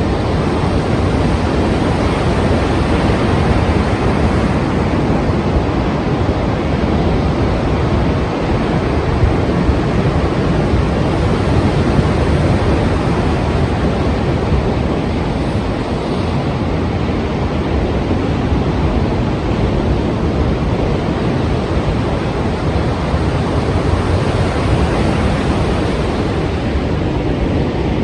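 Strong sea waves and surf making a steady, dense rush of noise, with wind mixed in.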